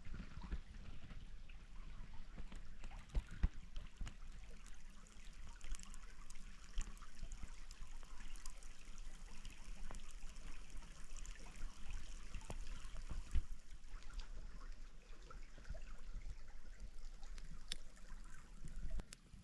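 Stream water trickling steadily, with scattered sharp clicks and knocks and a low rumble underneath.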